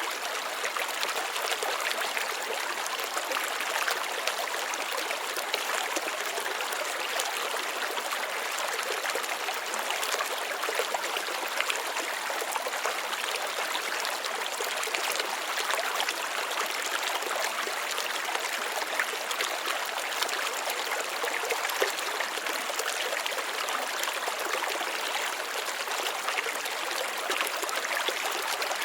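Water running and trickling steadily, with fine irregular splashes.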